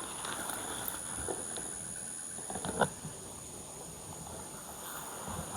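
Beehive being opened by hand: scattered light scrapes and knocks of the wooden box and lid, with one sharper crack about three seconds in, over a steady high-pitched whine.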